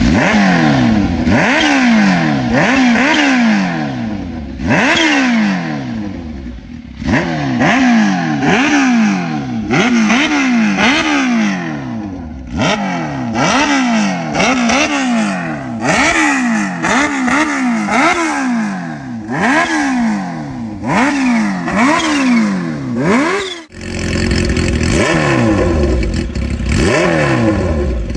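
Kawasaki H2 motorcycle engine and exhaust revved in repeated throttle blips, each rev climbing sharply and then falling back, roughly once a second, with a brief break near the end.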